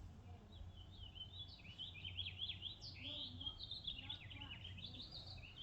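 A songbird singing a long, fast run of quick chirping, warbling notes, starting about half a second in.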